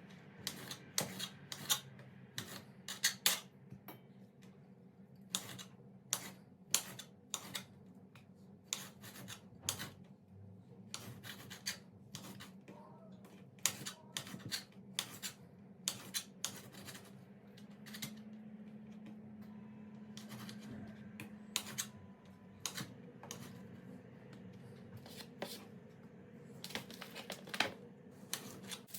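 Household handling sounds: irregular sharp clicks and knocks of objects being picked up and set down, with rubbing in between.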